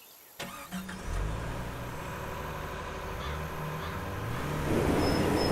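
Heavy truck's diesel engine starting up suddenly and running with its pitch stepping up and down as it revs, growing louder toward the end.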